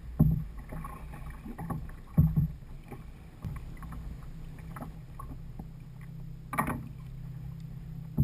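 Knocks and bumps against a kayak's hull on the water, a few seconds apart, over a steady low hum; a brighter knock or splash comes near the end.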